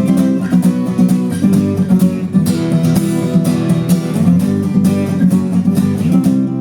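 Music: an acoustic guitar strummed in a steady rhythm, chords with no voice.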